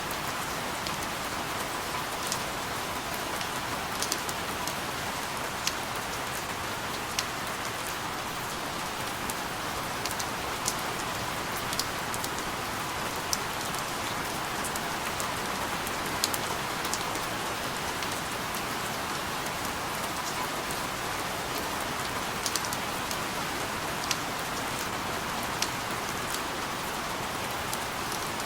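Steady rain falling, an even hiss with frequent sharp drip ticks of individual drops striking a surface.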